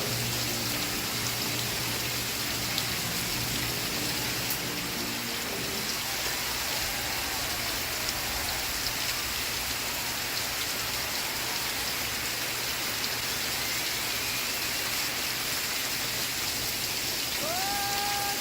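Steady rain falling, a dense even hiss. Faint music plays underneath in the first few seconds, and a held musical note comes in near the end.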